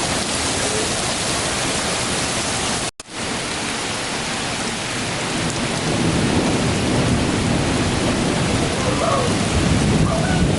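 Heavy thunderstorm rain pouring down steadily, with a low rumble of thunder building in the second half. The sound drops out for an instant about three seconds in.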